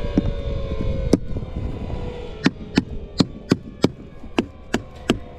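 Nails being driven into roof shingles: one sharp strike about a second in, then a steady run of strikes about three a second.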